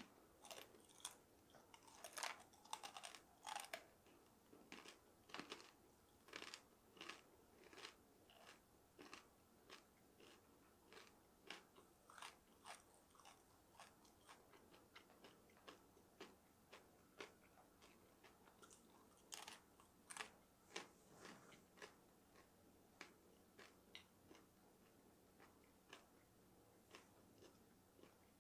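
Quiet, close-miked chewing of dried shiitake mushroom slices: irregular crisp crunches, roughly one or two a second, with a denser run of louder crunches a few seconds in.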